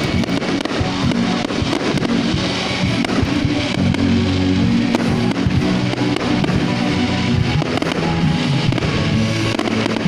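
Music with fireworks bursting and crackling all through it in quick, irregular succession.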